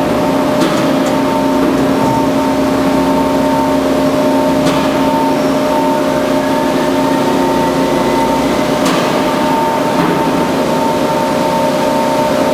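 Band saw running steadily, a constant loud machine hum with a few light ticks.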